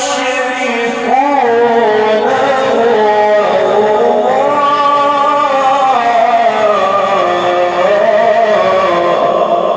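A man's voice reciting the Quran in a melodic, drawn-out chanted style: one continuous line of long held notes that slide and waver up and down in pitch, easing off near the end.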